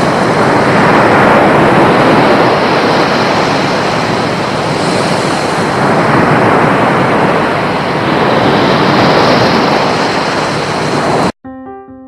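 Loud, steady rushing noise that slowly swells and eases, cut off abruptly near the end; soft piano music starts just after.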